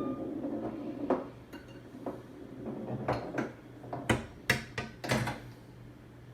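Star Explorer home pinball machine with its steel ball rolling down the playfield to the drain: a scattered series of sharp metallic clicks and knocks, thickest between about three and five and a half seconds in, over a steady low hum.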